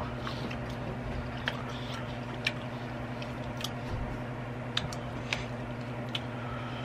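Close-miked chewing of french fries with the mouth closed: short wet clicks and squishes about once a second over a steady low hum.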